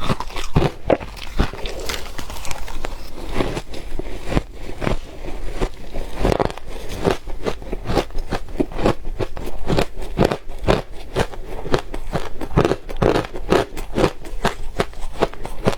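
Soft ice being bitten and chewed close to the microphone: a dense, unbroken run of rapid, crackly crunches.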